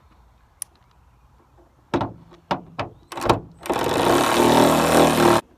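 Hand-tool work on a car's bolts: a few sharp metal knocks, then about a second and a half of loud continuous rattling tool noise that stops abruptly.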